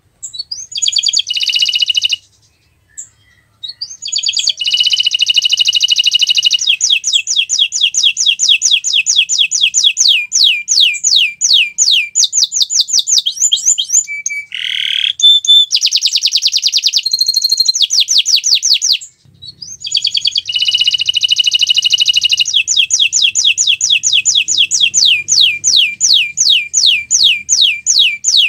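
Domestic canary singing loudly in long, fast trills of rapidly repeated notes, pausing briefly about two seconds in and again about nineteen seconds in, with a short lower sweeping phrase near the middle.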